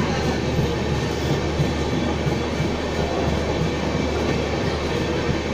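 Express train coach running through a station at speed, heard from its doorway: a steady, unbroken running noise of wheels on the rails with a constant low hum.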